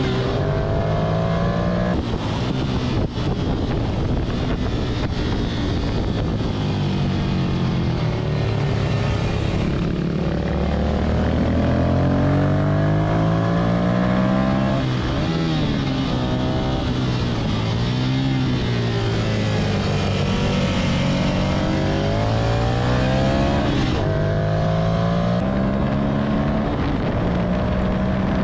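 Ducati Monster 659's L-twin engine under hard riding on a racetrack, its revs climbing and dropping again and again as it works up through the gears and back down for corners, over steady wind rush.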